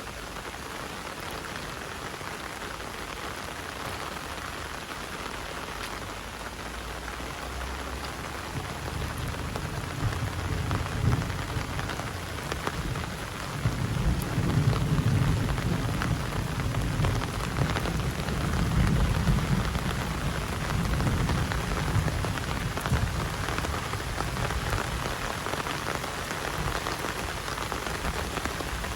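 Heavy rain falling steadily, with a deep low rumble building about a third of the way in, loudest in the middle and lingering to the end.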